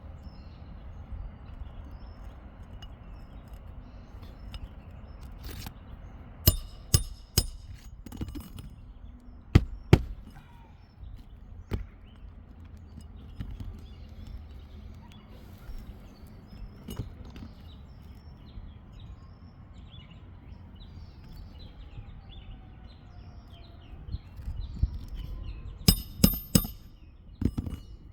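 Scattered sharp clicks and knocks in small clusters, a few about a third of the way in and another run near the end, over a low steady outdoor rumble.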